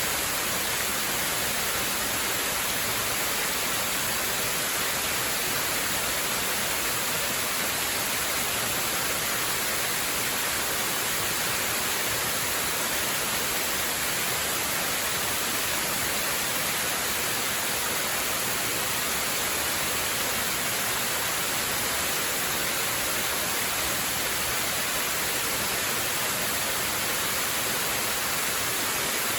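Waterfall: a steady, unbroken rush of falling water, an even hiss-like wash strongest in the high range, with no separate splashes or changes.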